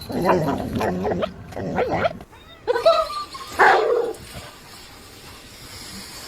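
A dog vocalizing: a drawn-out sound that wavers up and down in pitch for about two seconds, then two short barks about a second apart.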